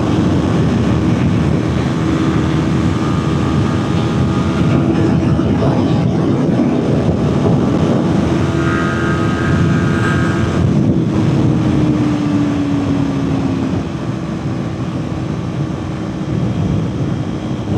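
Kawasaki Ninja 400's parallel-twin engine held at full throttle near its top speed, a steady engine note under heavy wind rush on the microphone; the bike is held back by wind resistance. About twelve seconds in the engine note sags slightly and the sound drops a little, with a brief higher-pitched tone heard a little before that.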